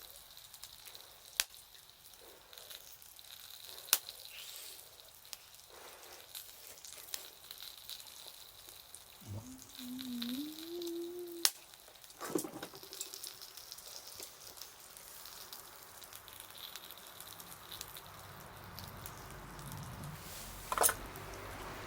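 Wood fire burning with a steady hiss and scattered crackles, broken by a few sharp, loud pops.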